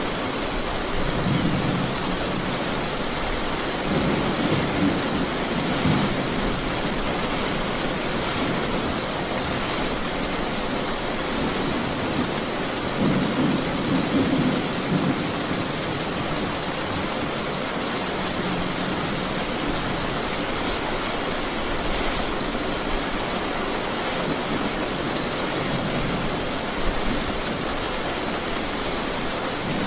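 Steady heavy rain hissing, with low rolls of thunder rumbling up several times, the strongest about four seconds in and again around thirteen to fifteen seconds in.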